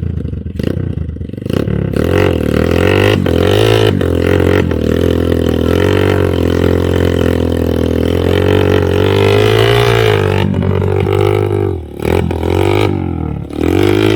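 Motorcycle engine running hard, its drone rising and falling in pitch with the throttle, easing off briefly twice near the end.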